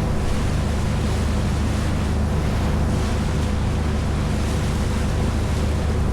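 A boat's engine running steadily under way, with the rush of water against the hull and wind buffeting the microphone.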